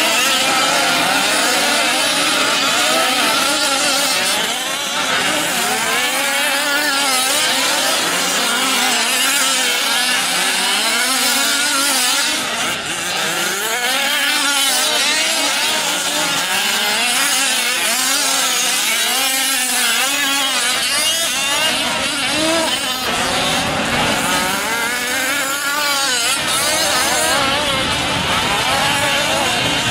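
Several 1/5-scale RC trucks' small two-stroke gasoline engines racing together, each repeatedly revving up and backing off, their overlapping whines rising and falling.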